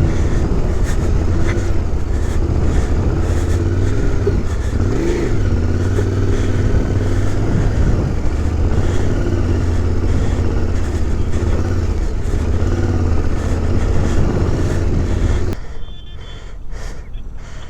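Yamaha Tenere 700's parallel-twin engine running at low speed over rough dirt, with a few brief rises and falls in revs. Near the end it cuts off abruptly to a much quieter background with a few clicks.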